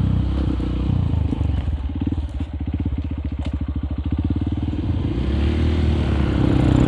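Honda CRF150L single-cylinder four-stroke engine through an aftermarket Nofi Fumi Torc exhaust, ridden on a slippery dirt track. Partway through it drops to a low, evenly pulsing lope, then the revs climb and it grows louder near the end.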